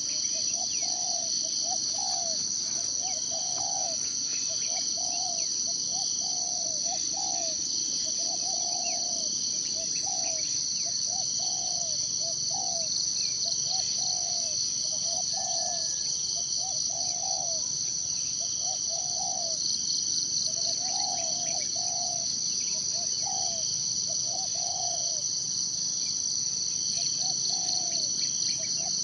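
Steady high-pitched insect chorus with a fast pulse, typical of cicadas or crickets in a forest. Over it a bird repeats short low calls in twos and threes, roughly once a second.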